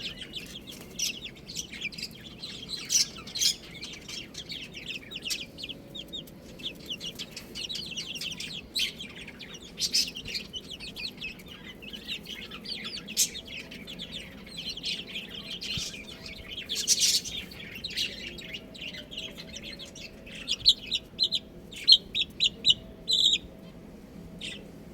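Baby chicks peeping, many short high chirps overlapping without a break, with a run of louder, evenly spaced peeps near the end.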